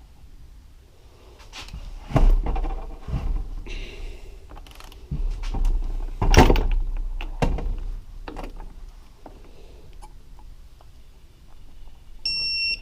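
Knocks and clunks of tools and metal engine parts being handled on a workbench, loudest about two seconds in and again around six seconds in. Near the end there is a short, high-pitched beep lasting about half a second.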